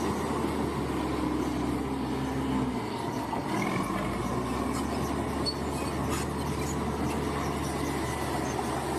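Crawler bulldozer's diesel engine running steadily, with metallic squealing and clanking from the tracks. The engine note changes about three seconds in.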